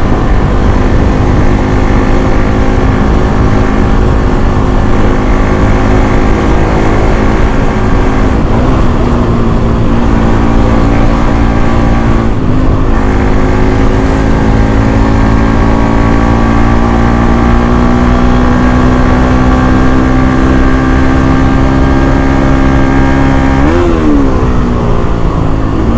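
Bajaj Pulsar NS200's single-cylinder engine on its stock exhaust, running hard at high revs, its pitch climbing steadily as it accelerates. The pitch drops suddenly at gear changes about 9 and 13 seconds in, and near the end it revs up quickly and falls back.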